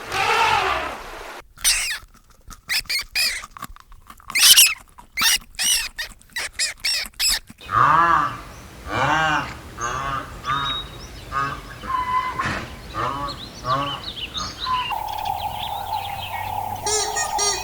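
Waterfowl calling: quick runs of harsh repeated calls, then a series of evenly spaced calls about twice a second, in separate clips joined one after another. Near the end a steady held tone comes in, with quick high chirps over it.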